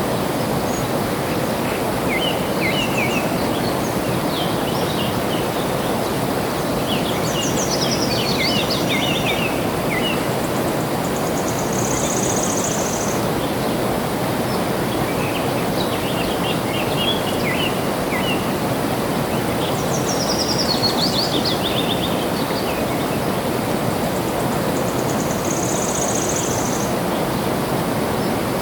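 Steady rush of flowing water with small birds chirping over it. A falling trill comes about a third of the way in and again about two-thirds in, each followed by a short high buzzy note.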